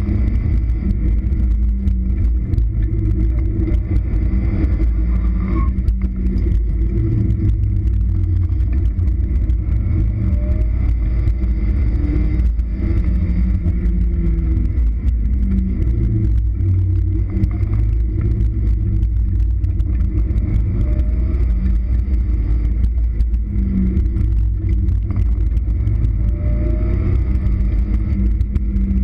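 1.6-litre four-cylinder engine of a first-generation Mazda Miata, heard from the open cockpit, running hard under load with its pitch rising and falling several times as the car speeds up and slows. Wind buffets the microphone.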